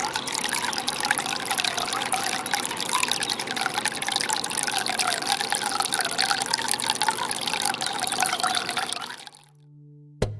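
Water of a cascade fountain splashing and trickling steadily, fading out about nine seconds in.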